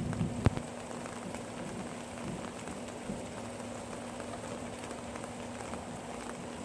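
Light rain falling steadily, with scattered drips and one sharp tap about half a second in, over a faint steady low hum.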